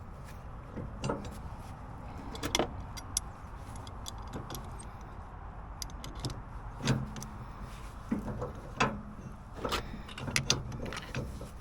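Scattered metal clinks and knocks as the three-point hitch top link and pins are handled and set on a rotary cutter, over a steady low rumble.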